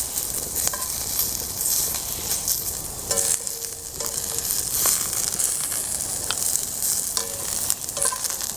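Brussels sprouts sizzling steadily in hot olive oil in a cast iron skillet, with a utensil scraping and clinking against the pan every so often as they are stirred and turned cut side down.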